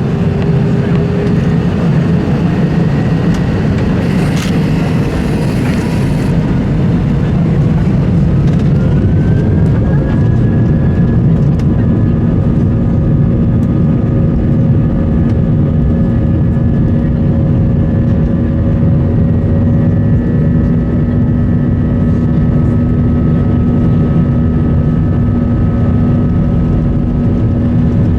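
Airbus A320-200 jet engines heard from inside the cabin, spooling up: a whine rises in pitch and levels off about ten seconds in, over a steady loud rumble.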